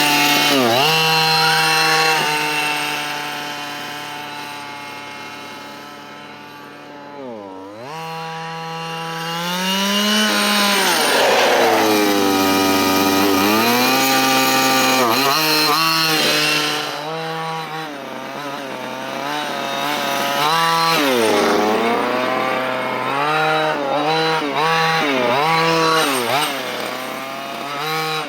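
Losi Desert Buggy XL's 23cc two-stroke gas engine running during its break-in, the revs rising and falling over and over. The sound fades for a few seconds, then comes back up loud about ten seconds in.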